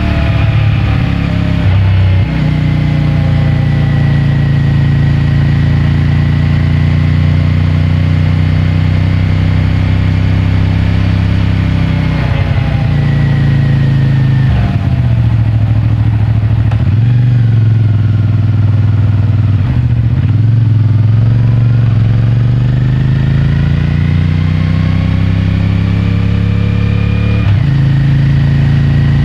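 CFMOTO 450MT's parallel-twin engine and stock exhaust under way. The engine note drops and rises several times as the rider changes gear and throttle, over road and wind noise.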